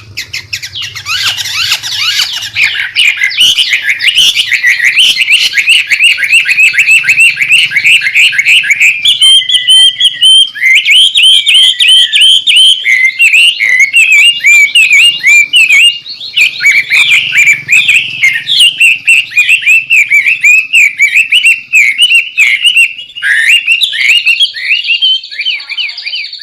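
White-rumped shama (murai batu) singing a loud, rowdy song of rapid, chattering, sweeping notes with hardly a break. It ends in a fast, high trill.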